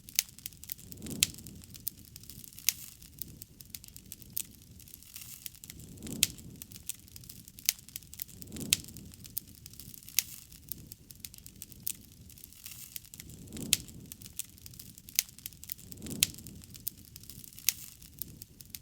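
Wood campfire burning, crackling steadily with many sharp, irregular pops and snaps over a soft hiss, and low soft swells every couple of seconds.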